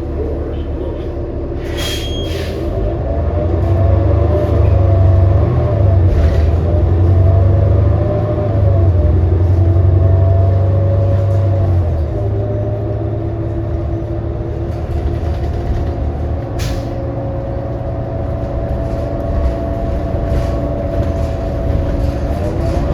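Cabin sound of a 2018 New Flyer XD40 diesel transit bus under way: the engine runs with a low drone that grows heavier from about four to twelve seconds in, under a whine that wavers up and down in pitch, the odd, messed-up sound this coach is known for. A sharp hiss about two seconds in and another later on.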